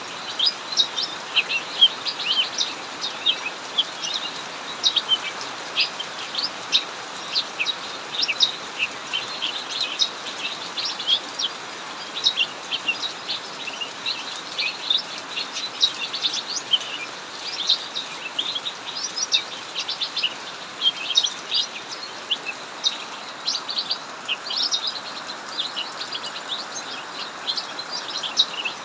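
Cucak mini songbirds singing continuously, with rapid, busy chirps and trills over the steady hiss of heavy rain.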